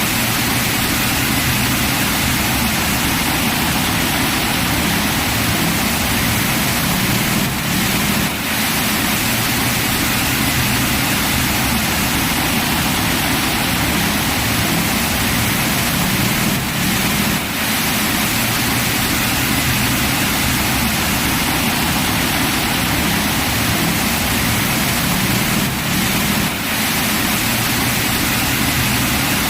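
Heavy rain pouring down in a dense, steady hiss, with a brief slight dip in level about every nine seconds.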